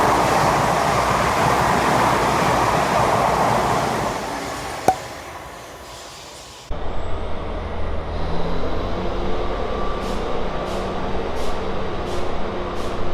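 A South Western Railway passenger train passing, its rumble dying away over a couple of seconds with one sharp click. About seven seconds in it cuts suddenly to a different steady train rumble and hum, with short sharp hissy strokes recurring near the end.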